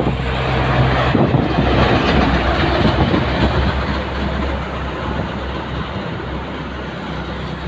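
A heavy diesel truck passing close by, its engine droning low under loud tyre and road noise. It is loudest in the first few seconds and then slowly fades as it moves away.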